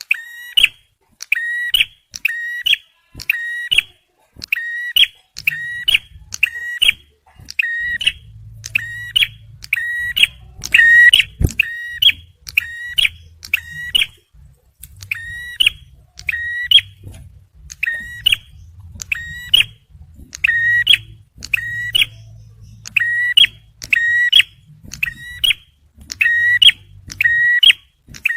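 Male prenjak merah (ciblek, a prinia) singing its rapid 'tembakan' call: one sharp, high chirp repeated over and over at a steady rate of about one and a half a second, without a break.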